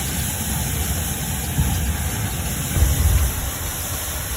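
A heavy engine's steady low rumble under a constant hiss, swelling slightly about three seconds in.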